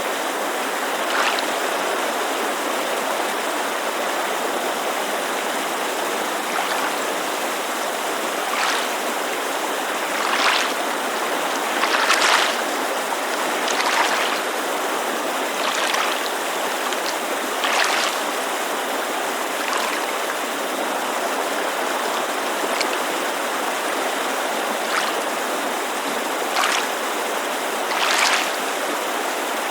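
Steady rushing of a mountain creek, with small waves lapping against a lakeshore in soft splashes every couple of seconds.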